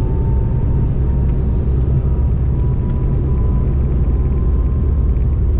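Steady low rumble of the Embraer E190-E2's Pratt & Whitney PW1900G geared turbofans heard inside the cabin, with a faint thin whine that rises slowly in pitch.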